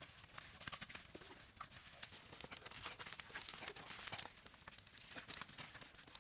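Irregular knocks and scrapes of manual work, several each second, with no steady rhythm.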